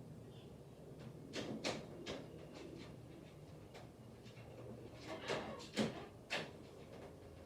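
A series of sharp clicks and knocks in two clusters, about a second and a half in and again from about five to six and a half seconds in, over a faint low background hum.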